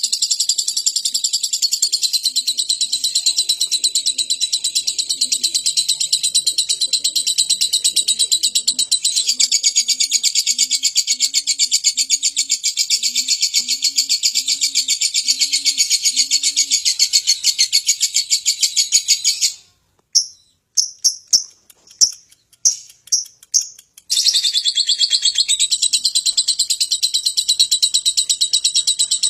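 Lovebird giving its long 'ngekek' song: a fast, unbroken chatter of high notes. About two-thirds of the way through it breaks off into a few separate chirps for several seconds, then starts up again. Midway, a faint low cooing repeats about nine times behind it, like a dove.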